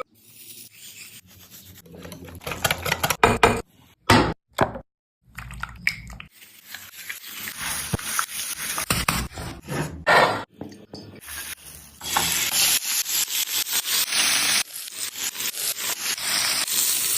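Hand food preparation in a kitchen: rhythmic rubbing and scraping strokes, in several short bursts broken by sudden brief silences, settling in the last few seconds into a steady rhythm of about five strokes a second.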